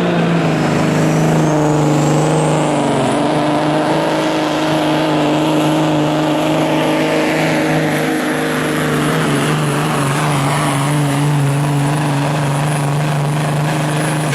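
Modified semi truck's diesel engine running hard at steady high revs while pulling the sled, with a thin high whine that rises over the first few seconds and then holds.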